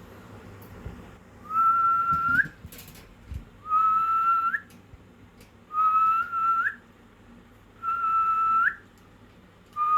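A parrot whistling five times, about every two seconds. Each note is a clear whistle about a second long that holds one pitch and flicks upward at the end.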